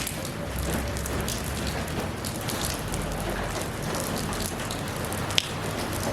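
Steady rain falling, with many individual drops tapping close by and one sharper drip about five seconds in.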